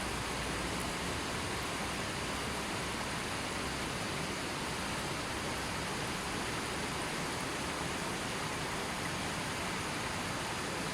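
A gently flowing river, its water running with a steady, even rushing hiss and no changes.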